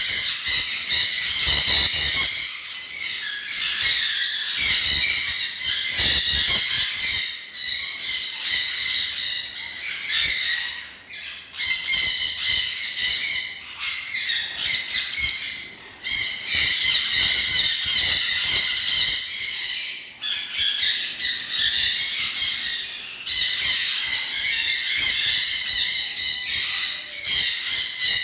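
A flock of small cage birds chattering at once: dense, overlapping high chirps and squawks, with a few brief lulls.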